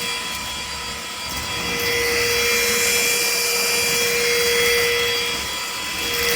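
Cordless stick vacuum cleaner running: a steady rush of air over a high motor whine, dipping slightly in level about half a second in and again near the end.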